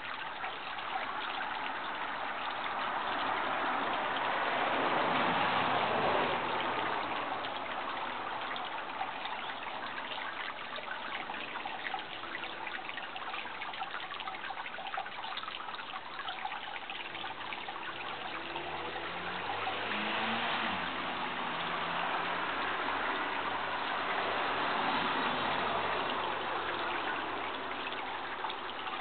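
Steady rush of running water, like a stream or brook, swelling louder twice. A faint low drone comes and goes about two-thirds of the way through.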